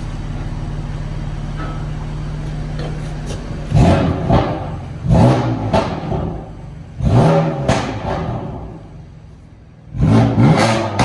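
Car engine idling steadily, then revved hard four times, each rev falling back with crackling exhaust pops. The exhaust is spitting on the overrun.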